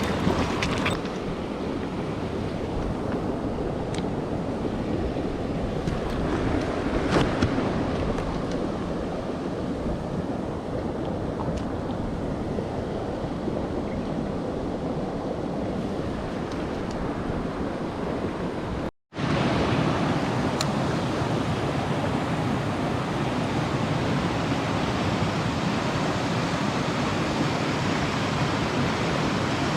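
Mountain stream water rushing steadily. It cuts out briefly about two-thirds of the way through and comes back a little brighter.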